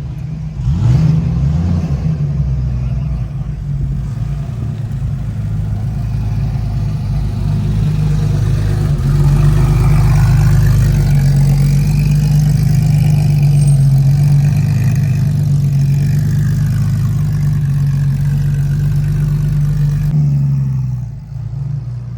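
Car engines running close by as cars pull away, a steady low drone with some revving that grows louder about nine seconds in and drops away about a second before the end.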